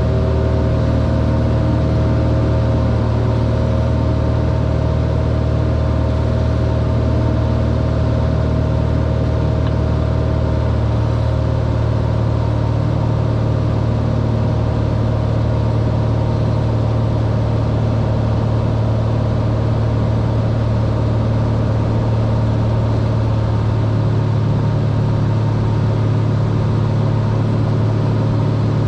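Cessna 182R's six-cylinder piston engine and propeller running steadily, with a slight change in the engine note about 24 seconds in.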